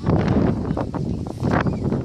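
Wind buffeting the camera microphone: an uneven, gusting rumble with scattered crackles.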